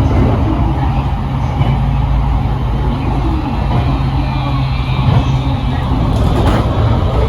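Train running: a loud, steady rumble with a low hum beneath it.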